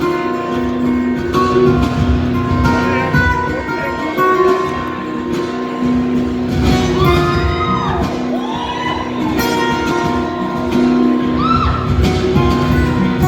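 Live acoustic band music led by acoustic guitar, an instrumental passage with no lead vocal, ringing in a large hall.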